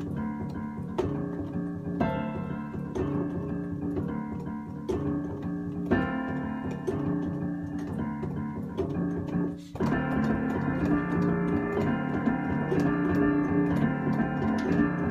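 Fast instrumental piano music over a driving cajon beat. About ten seconds in, it breaks off for an instant and comes back fuller and louder.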